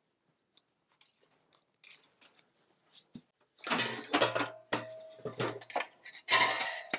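Milk squirting into a pail as a dairy cow is milked: a rapid series of hissing spurts, roughly two a second, starting about halfway through after a few faint clicks.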